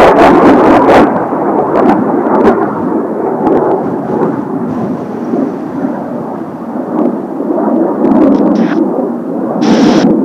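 Kawasaki T-4 jet trainers' engines, a loud, deep rumbling roar. It is loudest with crackle in the first second, eases, then swells again near the end. Strong wind buffets the microphone.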